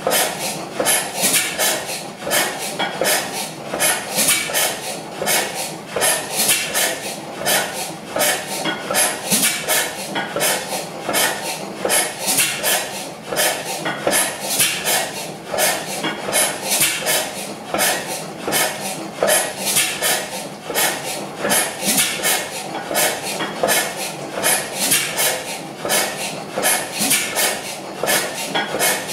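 Crossley slide-valve stationary gas engine running, with a steady metallic clatter from its valve gear, several clicks a second.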